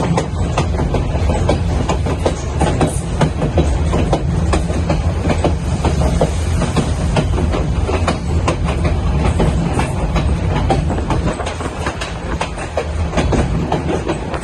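White Pass & Yukon Route train running on the rails: a steady low rumble with an irregular clatter of wheels over the track.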